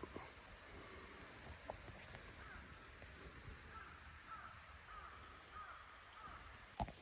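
A faint series of short animal calls repeating every half second or so over a soft steady hiss, with a sharp click near the end.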